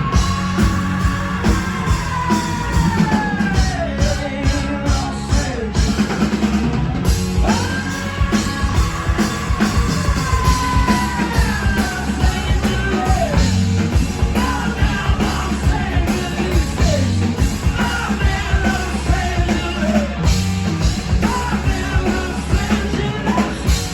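Rock band playing, with a singer holding long, high, wailing notes that slide down at their ends, over drums, bass and electric guitar.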